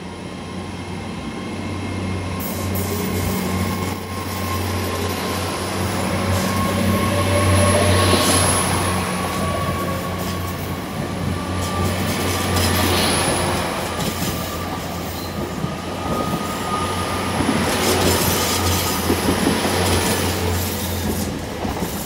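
GWR Class 800 bi-mode train pulling away from the platform: a steady low hum with faint whines slowly rising in pitch as it gathers speed, loudest about eight seconds in.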